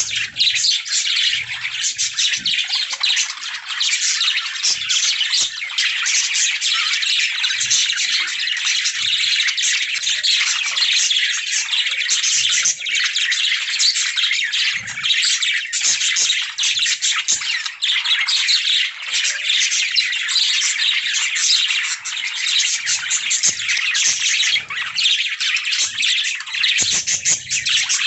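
A flock of budgerigars chirping and warbling all at once in a dense, unbroken high-pitched chatter.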